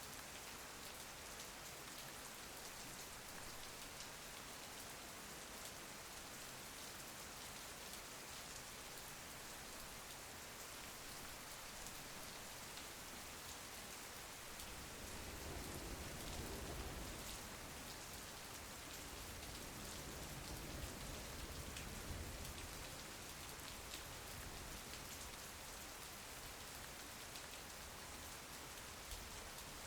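Steady rain falling, an even patter. About halfway through, a low rumble swells and then fades away some seconds later.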